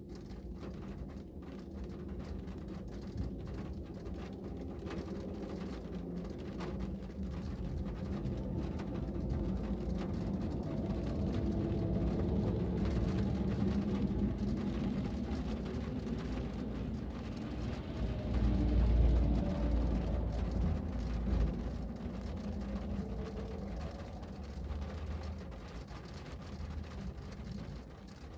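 Rain pattering steadily while the low rumble of a passing vehicle swells, is loudest about two-thirds of the way through, and fades again.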